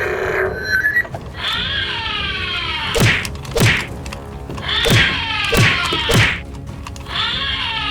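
Fight sound effects for a toy battle. Three spells of falling, musical electronic tones alternate with five sharp punch-like impacts near the middle.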